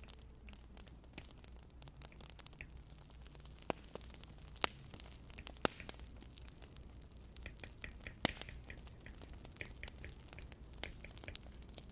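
Wood fire crackling: irregular sharp pops and snaps, a few louder than the rest, over a low steady hum.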